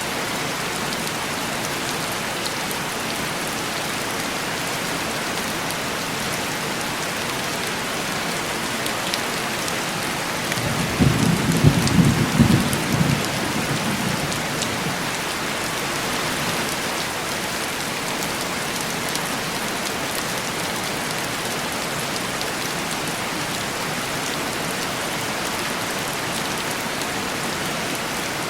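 Steady heavy rain falling on window glass, with a rumble of thunder about eleven seconds in that swells for a few seconds and fades.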